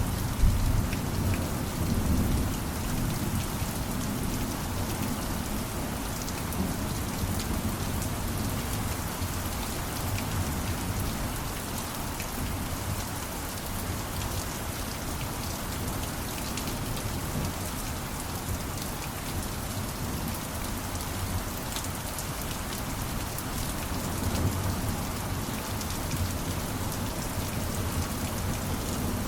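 Steady rain falling, with a low rumble swelling a second or two in and again near the end.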